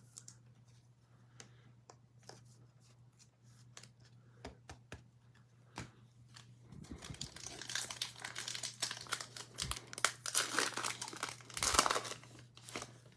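Foil trading-card pack wrapper being torn open and crinkled, a run of crackling from about seven seconds in until near the end, after a few faint scattered clicks.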